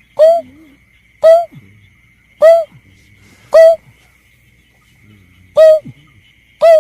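Lure recording of a berkik (snipe) call: a short hooting note repeated six times, about once a second with one longer pause, each note bending up then down in pitch. A faint steady high whine runs underneath.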